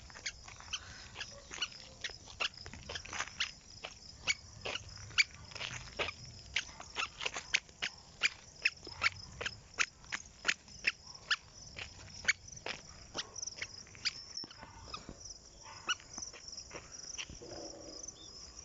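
A toddler's squeaky shoes chirping with each step, about two short sharp squeaks a second, with a short break near the end.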